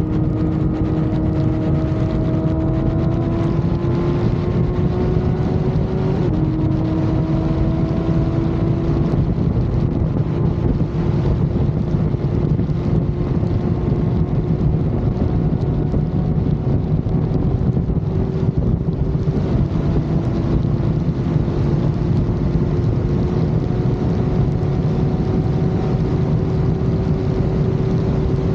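Motorcycle engine running at highway speed, its pitch climbing slowly as it pulls, with an upshift about six seconds in. Wind rushing over the microphone.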